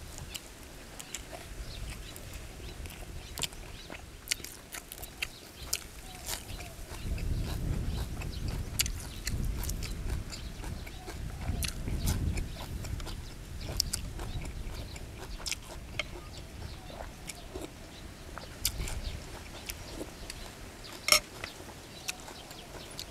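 A man chewing mouthfuls of shrimp larb with fresh vegetables close to the microphone: chewing, smacks and scattered sharp clicks, with a low rumble from about seven to thirteen seconds in.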